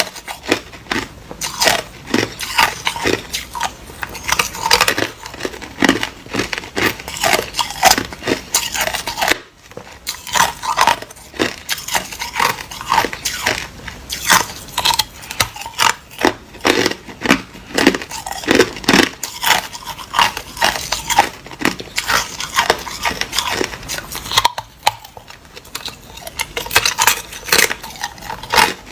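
Hard ice being bitten and chewed close to the microphone: a dense run of loud, irregular crunches and cracks, several a second, with short pauses between bites.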